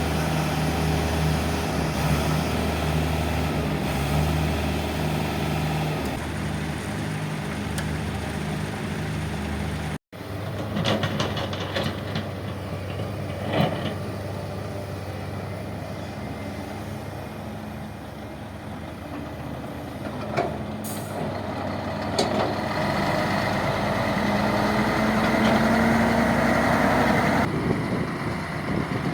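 Heavy diesel machinery engines running, with a hard cut about ten seconds in and scattered knocks after it; near the end an engine note rises as it revs up, then drops away.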